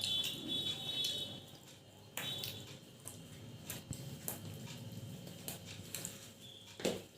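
Close eating sounds of people chewing luchi with chickpea dal: wet chewing and lip-smacking with scattered small clicks, and a short throat sound near the end.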